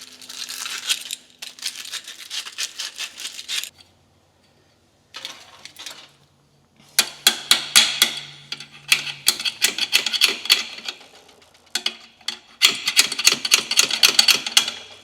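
Quick rasping strokes of hand work on a metal fuel line tube, several strokes a second, in four bouts separated by short pauses.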